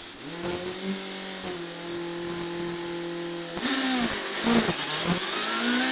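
Citroen DS3 WRC rally car's turbocharged four-cylinder engine, heard from the cabin. The revs rise and hold steady for about three seconds. The car then pulls away, the pitch dipping and climbing repeatedly, with a few sharp cracks.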